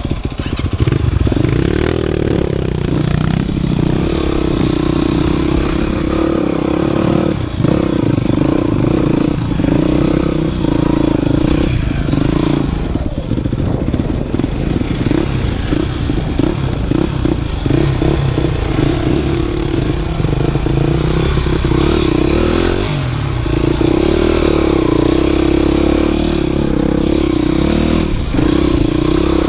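Dirt bike engine running while riding off-road, the engine note holding steady for long stretches and going choppy through the middle, with clattering over rough ground.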